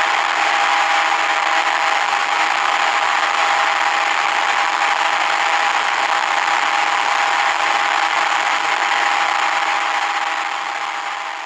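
Yamaha TZM150's 150 cc two-stroke single engine running flat out at a steady high pitch, held at top speed. The sound fades out near the end.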